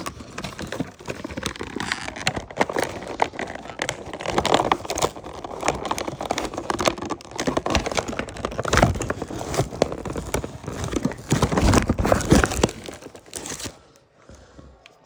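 Toy packaging being handled and pulled apart: irregular crinkling and rustling with sharp clicks and some tearing, busiest in the middle and dying down near the end.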